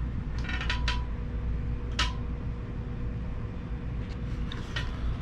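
A steady low machine hum, with small clicks and handling knocks of objects being picked up and set down, the sharpest click about two seconds in.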